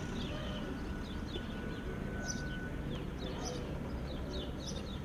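Small birds chirping repeatedly in quick short calls, over a steady low rumble.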